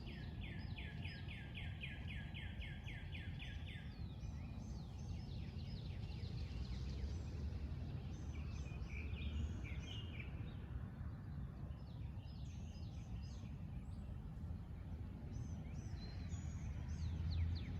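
Wild birds singing. It opens with a fast trill of about fifteen repeated notes lasting some four seconds, followed by scattered chirps and short phrases, over a steady low rumble.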